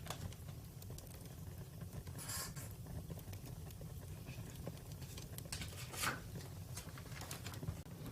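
Campfire crackling: irregular snaps and pops over a steady low rumble, with a sharper pop about six seconds in.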